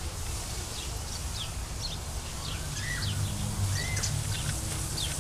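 Birds chirping: many short, high chirps repeat throughout, with two longer rising-and-falling whistled calls about halfway through. A steady low rumble runs underneath.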